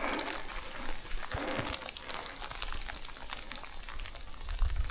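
Falling snow pattering with many small, irregular ticks.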